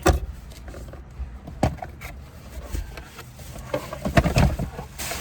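Handling noise: a few knocks and bumps with rustling, as a plastic trash bag and small items are gathered up inside a car.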